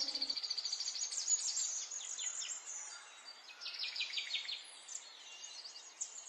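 Small songbirds chirping and trilling, several calling over one another. A fast, even trill runs through the first second and a half, and a run of sharp, falling chirps comes about four seconds in.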